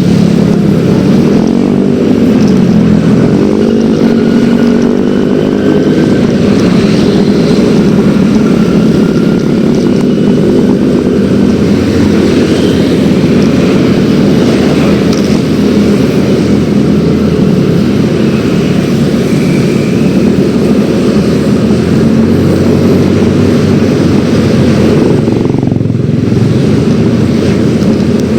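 Yamaha X-Ride 113cc scooter's single-cylinder engine running on the move, its pitch rising and falling a few seconds in, then holding fairly steady.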